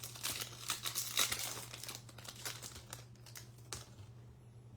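Wrapper of a Topps Fire baseball card pack being torn and crinkled open, the crackling busy at first and dying away after about three seconds.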